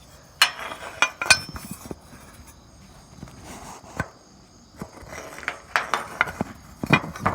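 Handling noise as a phone is set up and propped against a mounting bracket close to the microphone: a string of sharp knocks and clinks, several in the first second and a half, one about four seconds in, and a cluster near the end.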